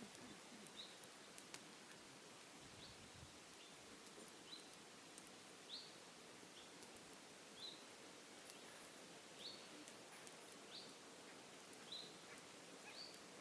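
Faint bird calls: one short, high, slightly rising chirp repeated about every second or so, over quiet outdoor background hiss.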